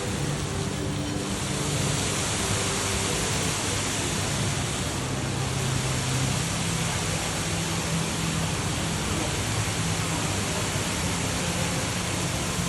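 Steady rush of water falling from an indoor patterned waterfall feature, splashing down without a break.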